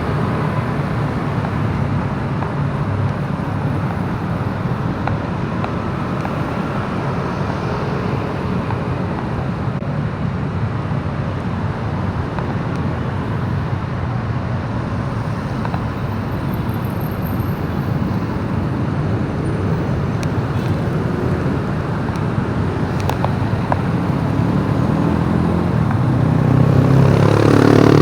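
Steady motorcycle riding noise in traffic: engine and road rumble, with a louder engine revving up near the end.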